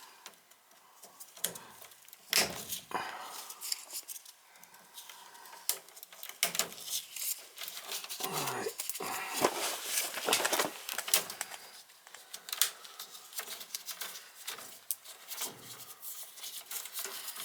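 Irregular small clicks, taps and rustles of hands working at a gas furnace's control board and its wiring.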